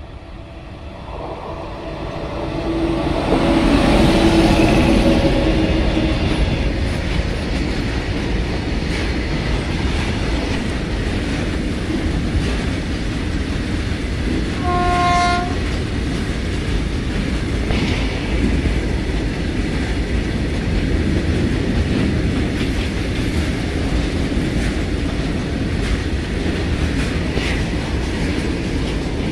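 WAG9 electric locomotive hauling a BTPN tank-wagon freight approaches and passes close by, its running growing louder over the first four seconds, with a hum at the peak. A steady rumble and clatter of the tank wagons rolling past on the grade follows. A short locomotive horn blast sounds about halfway through.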